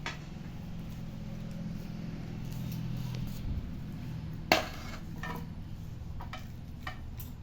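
Kitchen utensils clinking and knocking against a bowl and pan as marinated cauliflower is moved into a microwave multi-cook pan: a few sharp clacks, the loudest about halfway through, over a steady low hum.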